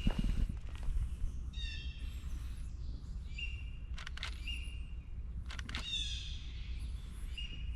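Wild birds calling: repeated short whistled notes and, three times, a harsher call sliding downward, with a thin high warble between them. Two quick sharp clicks sound about four seconds in, over a low steady rumble.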